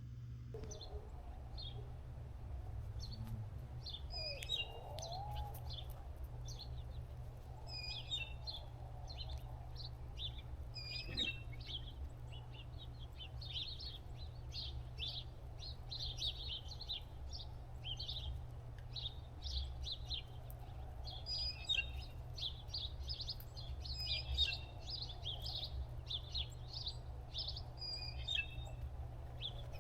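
Small birds chirping: many short, high chirps come in quick succession throughout, getting busier in the second half, over a steady low rumble.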